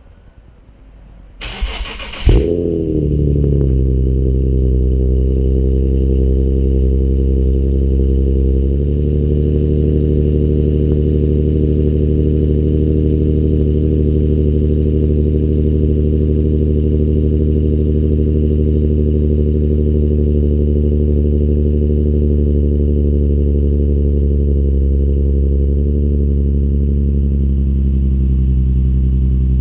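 2013 Infiniti G37S sedan's 3.7-litre V6 with an ARK Grip cat-back exhaust cold-starting: a brief crank, catching about two seconds in with a sharp flare, then a steady high cold idle. The idle drops a little about nine seconds in and stays steady.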